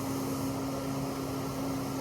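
Paint spray gun hissing steadily, triggered just before and held throughout, over the steady hum of a paint booth's fan.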